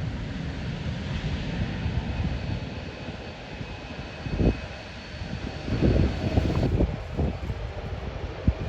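Jet airliner engines whining steadily, with the high whine cutting off about two-thirds of the way through, while strong wind gusts buffet the microphone with low rumbles.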